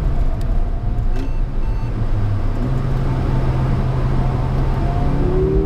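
Mercedes-AMG A45's turbocharged 2.0-litre four-cylinder heard from inside the cabin, holding low, steady revs through a corner over constant road and tyre noise. Near the end the revs start to climb as the car accelerates out.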